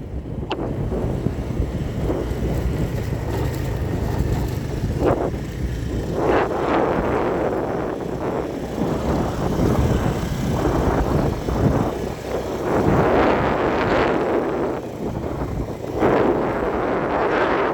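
Wind noise on the microphone, surging and easing in uneven gusts over a steady low rumble.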